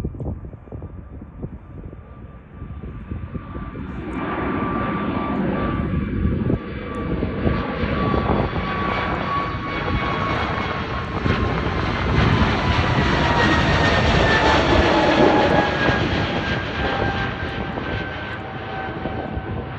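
Airplane engines at takeoff power, a swelling rush of engine noise that peaks past the middle and then eases off. Two high whining tones fall slowly in pitch throughout.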